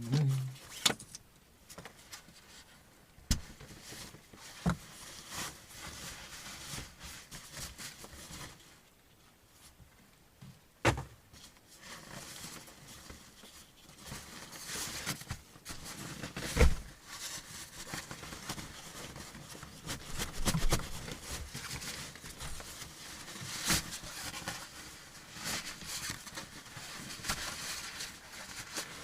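Rustling and handling noises with scattered sharp knocks and clicks, the loudest knock a little past halfway through.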